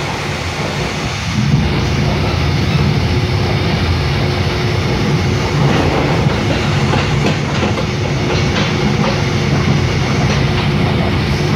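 Mugunghwa-ho passenger train running at speed, heard from inside the carriage: a steady rumble of wheels on rail with faint clicks, growing a little louder about a second and a half in.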